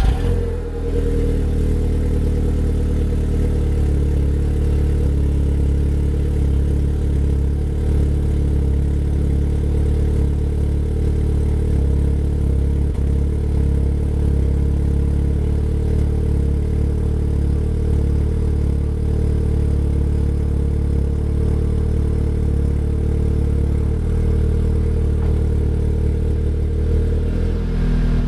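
Car engine with its full stock exhaust, catching with a brief flare at the start and then settling into a steady idle. The idle note shifts slightly near the end.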